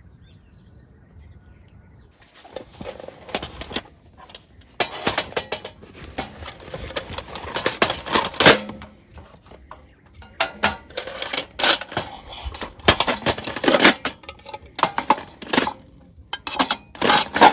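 Metal cookware and utensils being handled: irregular clinks, clatters and scrapes that start about two seconds in and go on in uneven bursts.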